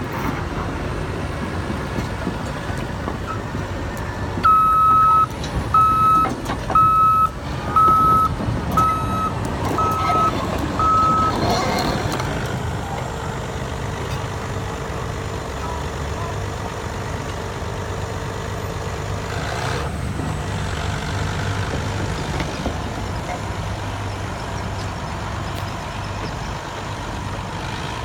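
Caterpillar D9 bulldozer's diesel engine running steadily, with its backup alarm beeping seven times, about once a second, between about four and eleven seconds in.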